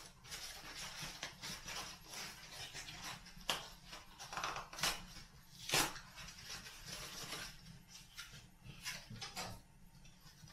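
Wood fire crackling in a fireplace: a dense run of irregular crackles and clicks, with a few louder, sharper snaps around the middle.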